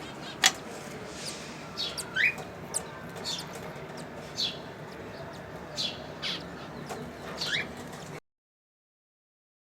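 Cockatiels calling: short, sharp chirps repeating every half second to a second over a faint steady background, cutting off abruptly about eight seconds in.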